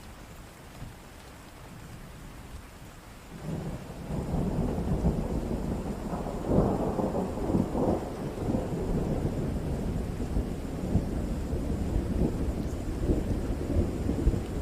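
Thunderstorm: steady rain, then about three seconds in a long roll of thunder builds, crackles loudest a few seconds later and keeps rumbling under the rain.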